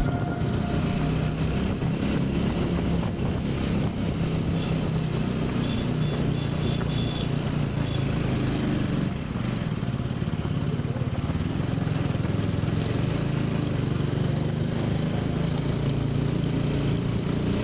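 TVS Apache RTR 200 4V motorcycle's single-cylinder engine running steadily while riding, with road and wind noise.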